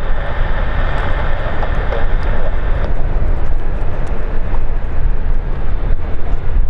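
Airliner engine noise at an airport: a heavy, steady low rumble with a higher hiss that fades about three seconds in.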